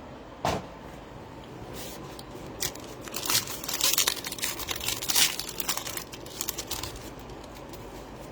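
Trading card pack wrappers crinkling and tearing as the packs are opened, densest between about three and six seconds in. There is a single knock about half a second in.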